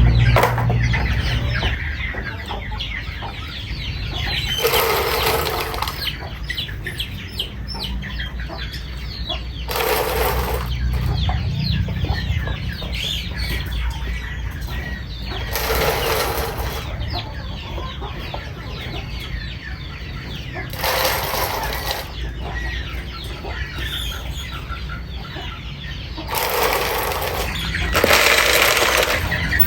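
Backyard hens clucking steadily. About every five to six seconds a louder noisy burst, each lasting a second or so, sounds over the clucking.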